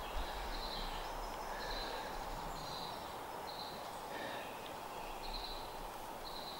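Woodland ambience: a steady outdoor hiss, with a bird repeating a short, high call about once a second.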